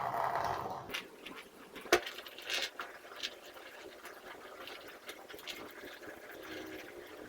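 Plastic vacuum cleaner parts being washed in a bathtub: a brief rush of water, then a sharp knock about two seconds in and scattered lighter clicks as the parts are handled and scrubbed.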